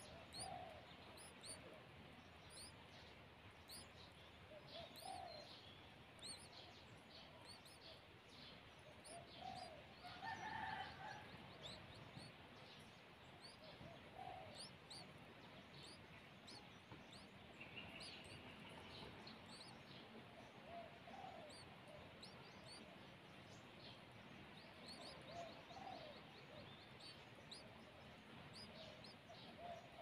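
Faint bird calls: many quick, high chirps throughout, a lower call repeated every few seconds, and a louder call about ten seconds in.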